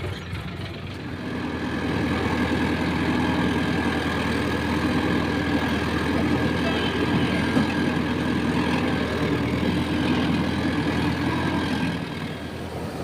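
Diesel tractor engine running steadily, growing louder about two seconds in as it is worked harder and easing off near the end.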